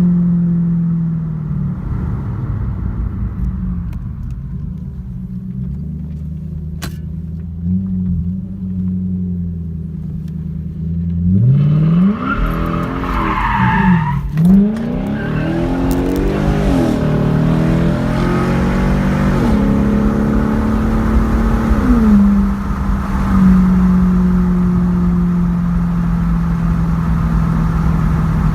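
2007 Infiniti M45S's V8 exhaust while driving: a steady drone at first, then from about twelve seconds in the engine note climbs and falls several times as the car accelerates, before settling back to a steady drone.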